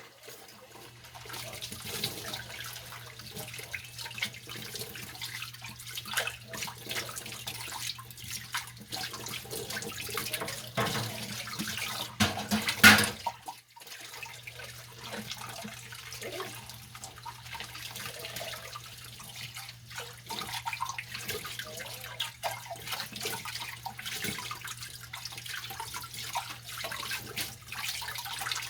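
Dishes being washed by hand at a sink: tap water running, with scrubbing and frequent small clinks of dishes. There is one louder clatter about 13 seconds in.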